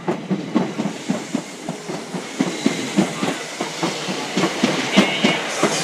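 Class 455 electric multiple-unit train moving through the station, its wheels clattering over rail joints and points in a quick, irregular clickety-clack.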